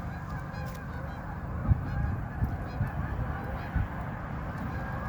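A flock of Canada geese honking, many calls overlapping without a break, over a steady low rumble, with a couple of short low thumps.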